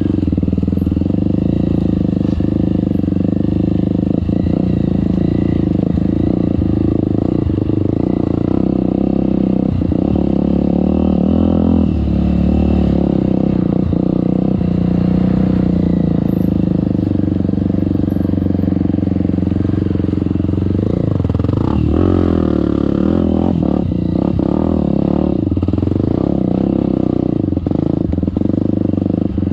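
Trail motorcycle engine running continuously, its pitch rising and falling as the throttle is worked, with occasional short knocks.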